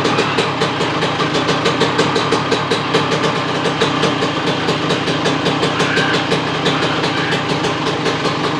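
Kawasaki Ninja 150 two-stroke motorcycle engine idling steadily with a crisp, rapid popping exhaust, held at one speed without revving.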